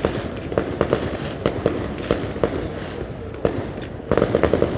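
Fireworks going off: a steady barrage of sharp bangs and pops over a continuous rumble, with a quick run of bangs about four seconds in.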